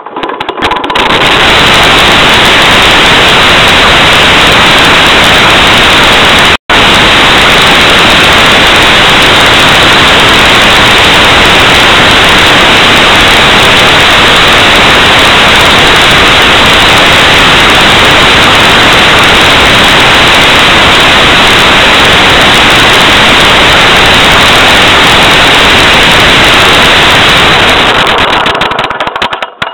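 Loud, steady static hiss like white noise, with no engine rhythm in it. It fades in at the start, cuts out for an instant about six and a half seconds in, and fades out near the end.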